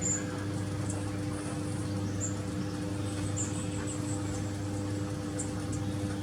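Small birds giving short, very high-pitched chirps, a few scattered calls with a quick cluster about three seconds in, over a steady low hum.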